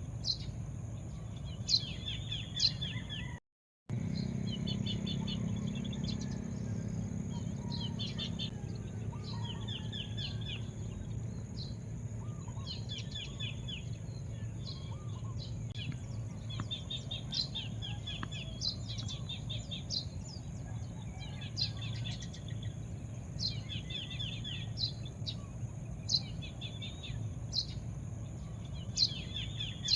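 Small birds chirping in repeated short, quick trills, a few every couple of seconds, over a steady low background rumble. The sound drops out briefly once near the start.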